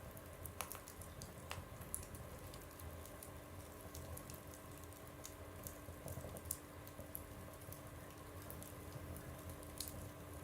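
Wood fire burning in a stove, crackling with irregular sharp pops and ticks over a low steady rumble.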